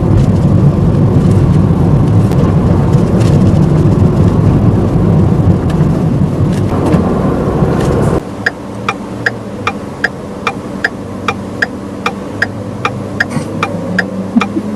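Manual-transmission car running under way with steady engine and road noise. About halfway through the engine noise drops abruptly to a quiet idle, and a turn-signal indicator clicks steadily, about two to three clicks a second.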